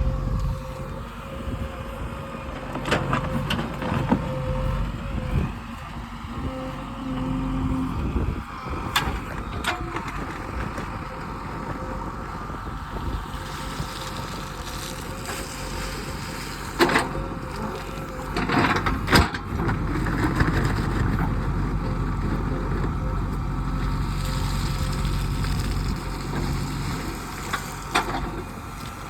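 Heavy diesel earthmoving machinery running, its engine drone rising and easing with the load, with several sharp knocks along the way.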